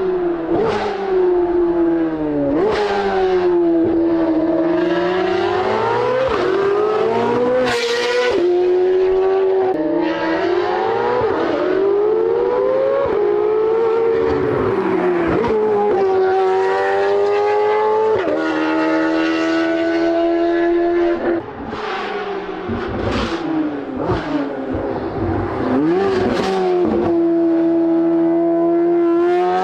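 A C8 Corvette Z06's LT6 flat-plane-crank V8 running through an aftermarket exhaust at high revs. Its pitch rises and falls again and again, and sharp cracks come where the revs break off.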